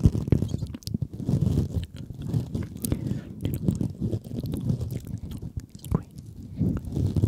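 Close-miked ASMR sounds: irregular wet clicks and crackles over a soft low rumble.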